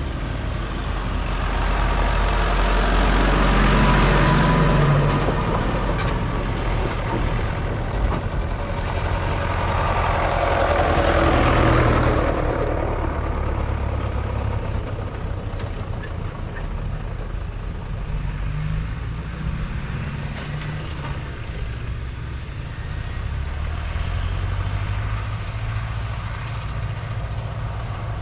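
Vintage farm tractor engines driving past one after another. Two pass close and loud, about four seconds in and again around eleven seconds, then quieter ones follow.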